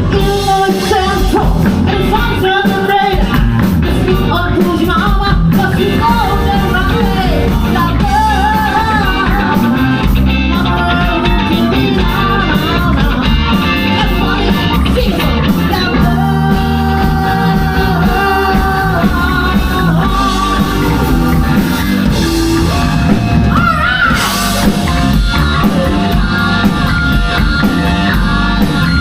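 Live rock band playing: electric guitar, bass and drum kit with singing, loud and continuous.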